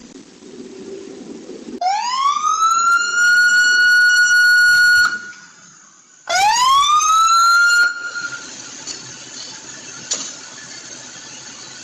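Emergency vehicle siren sounding twice, each time rising in pitch and then holding one high tone. The first blast cuts off suddenly after about three seconds, and the second is shorter.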